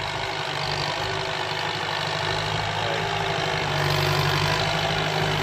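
Kubota tractor's diesel engine running steadily while planting sugar cane, growing a little louder about two-thirds of the way through.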